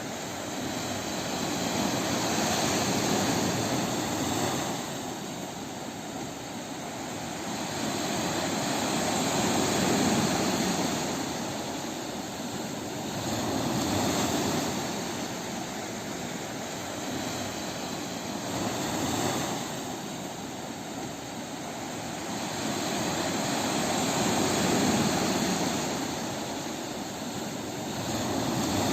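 Sea waves breaking on a beach, a steady wash of surf that swells and fades again every four to six seconds.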